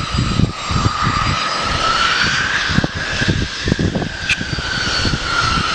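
Jet aircraft engines running with a steady, slightly wavering whine, over irregular low rumbling like wind buffeting the microphone.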